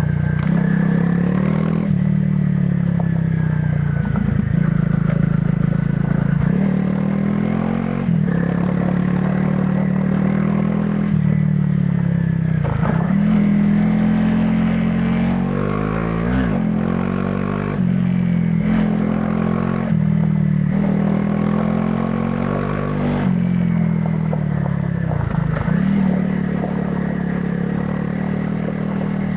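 Honda CRF300 Rally's single-cylinder engine through its stock exhaust, ridden off-road. The engine note climbs and drops again and again as the rider works the throttle and shifts. Several quick swoops in pitch and scattered knocks and rattles come from the bike over rough ground.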